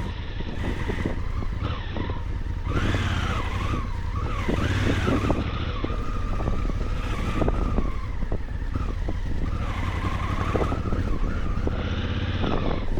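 Honda Africa Twin adventure motorcycle riding a rough off-road trail, its engine pitch rising and falling over and over with the throttle. Many short knocks and clatters from the bike over rough ground run through it.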